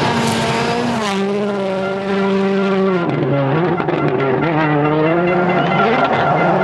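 Rally car engine revving hard, its pitch dropping about a second in and again around three seconds as it slows and changes gear, wavering, then climbing again as it accelerates, with tyre and surface noise underneath.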